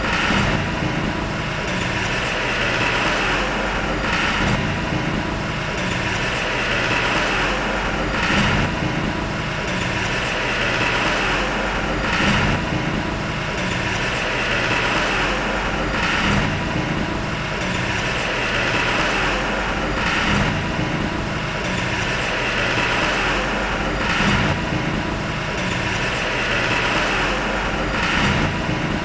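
Heavy earthmoving machine's diesel engine running steadily under work, with a faint surge that repeats about every four seconds.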